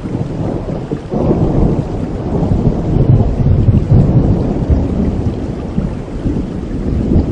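Thunderstorm: steady rain with a long, deep roll of thunder that builds about a second in, is loudest midway and slowly fades.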